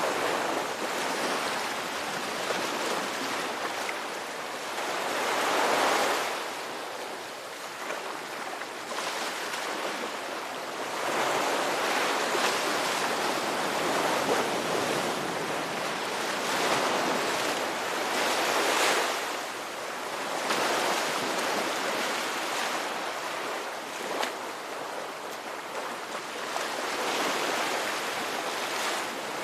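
Ocean waves breaking and washing up: a steady rush of surf that swells and ebbs every few seconds, each surge followed by a softer wash.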